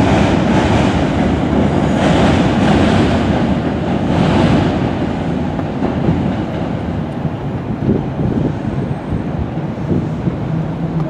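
NJ Transit commuter train rolling across a steel railway bridge: a steady rumble of wheels and cars on the rails, with a hissing edge over the first few seconds that eases off.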